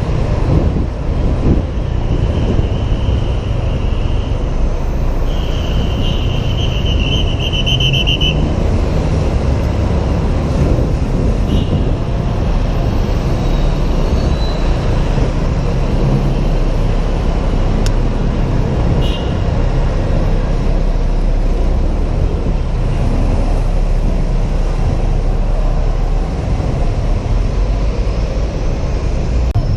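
Honda PCX 125 scooter ridden in city traffic, heard from a helmet camera: a steady, loud low rumble of wind, engine and road noise. A high-pitched tone sounds twice in the first eight seconds, the second one louder.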